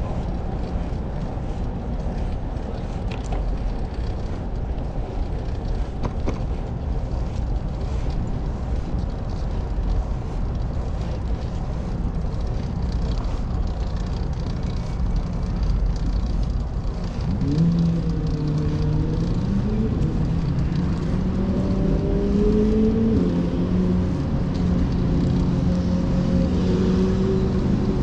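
Steady street-traffic noise with wind on the microphone while cycling. From a bit past the middle, a nearby motor vehicle's engine joins in, its pitch rising and falling and then holding steady.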